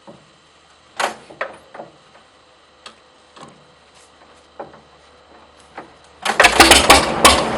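A few scattered sharp clicks and knocks, then about six seconds in the 1930 McCormick-Deering 22-36 tractor's four-cylinder engine catches and runs loud with rapid firing knocks.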